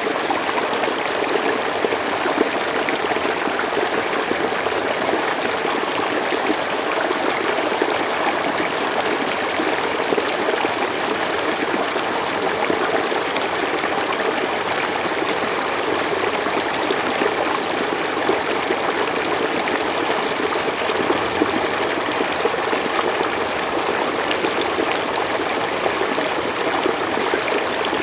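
A river or stream flowing steadily over rocks, a continuous rushing and splashing of water with no change in strength.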